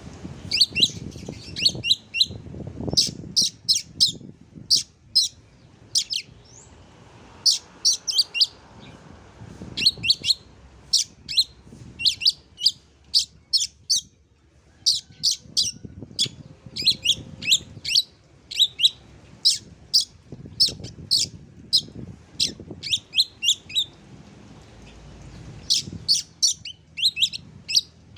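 Oriental magpie-robin (kacer) singing: quick clusters of sharp, high, downslurred notes repeated over and over, with short pauses between phrases.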